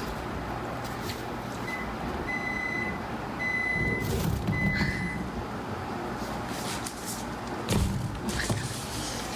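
Four short, high electronic beeps at one pitch, unevenly spaced, over a steady low rumble, followed by a few knocks and rustles.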